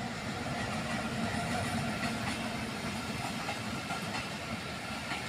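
A diesel locomotive hauling a passenger train passes steadily: the engine and the coaches' wheels rumble over the rails. The sound starts abruptly at full level.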